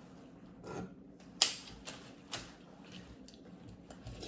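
A few light, sharp clicks and taps of small objects being handled, the sharpest about a second and a half in, then quieter ones.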